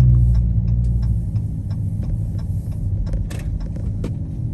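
Car engine and road rumble heard from inside the cabin while the car rolls slowly along, a steady low drone with faint regular clicks.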